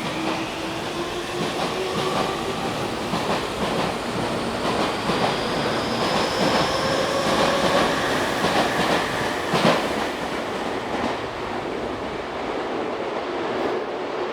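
Y500 series electric train accelerating out of a station: the VVVF inverter traction motors whine in several rising tones while the wheels click over rail joints, with one louder clank about ten seconds in.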